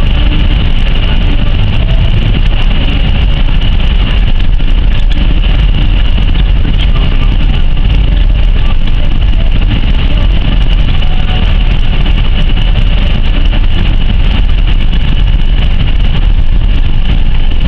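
A vehicle driving in strong wind: a loud, steady rumble of wind and road noise.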